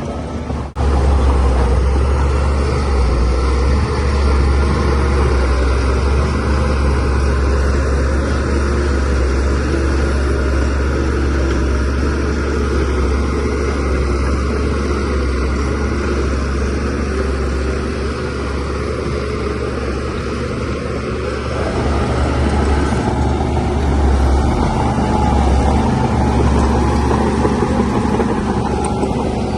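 Bulldozer's diesel engine running steadily with a deep drone, with a brief cut in the sound less than a second in and a slight rise in loudness later on.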